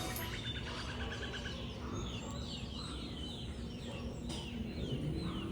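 Birds calling: a quick run of short notes in the first second and a half, then a short falling chirp repeated about three times a second.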